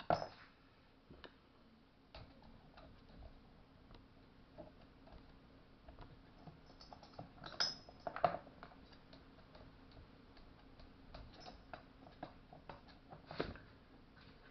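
Scattered light clicks and small knocks of tools and small metal parts being handled during chainsaw reassembly. A few louder knocks come at the start, about halfway through and near the end.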